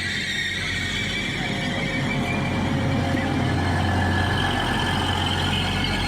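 Large vehicle's engine running steadily: a deep low hum with high, steady whining tones over it, growing a little louder partway through.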